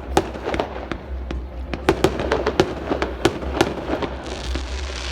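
Fireworks display going off: sharp, irregular bangs and crackles, roughly two or three a second, over a steady low rumble.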